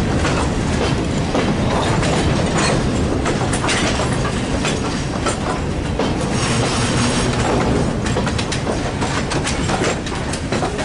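Covered hopper cars of a freight train rolling past close by: steel wheels clacking over the rail joints in a steady, continuous rumble with frequent sharp clicks.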